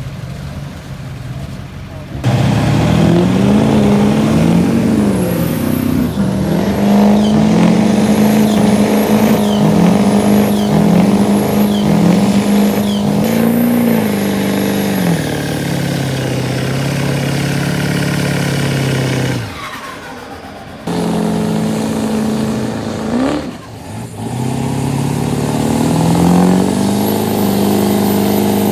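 Pull truck's engine revving hard under load: the engine note climbs and falls in a run of quick revs, holds high, then drops back. A faint high whine rises with each rev, and the sound breaks off briefly twice in the second half.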